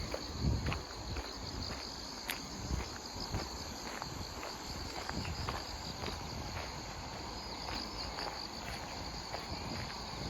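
Grass insects chirping steadily in a high, even band, with a walker's footsteps on the path as short regular taps, one heavier step about half a second in.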